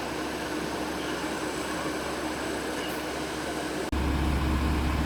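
Steady vehicle and road noise with a low hum. About four seconds in it cuts abruptly to a louder, deeper hum.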